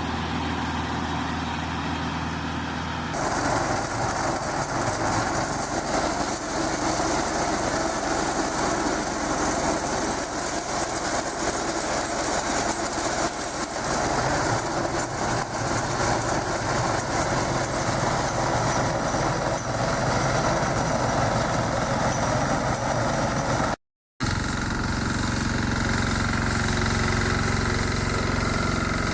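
A tractor engine runs steadily with a hay baler working behind it. The machine noise changes abruptly about three seconds in and again after a brief dropout near the end.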